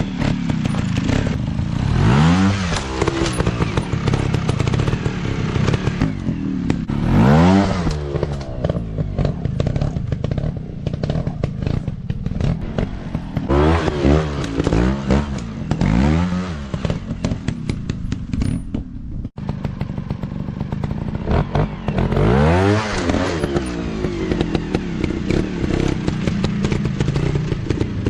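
Dirt bike engines revving again and again, the pitch climbing with each burst of throttle and dropping back between, with some clatter and scraping mixed in.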